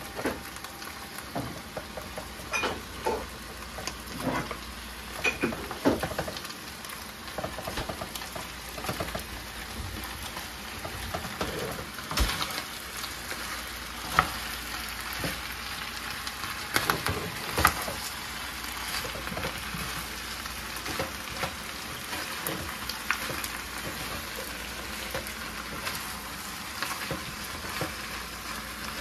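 Beef and onions sizzling in a hot pan while being stir-fried, a steady hiss broken by irregular sharp scrapes and knocks of the utensil against the pan.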